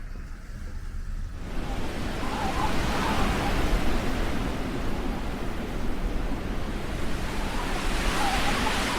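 A steady rushing noise of wind in a snowstorm, with a low rumble underneath, growing louder about a second and a half in.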